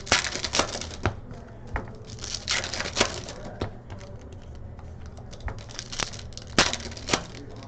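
Stiff trading cards being handled and flipped through, giving a string of irregular sharp clicks and short rustles.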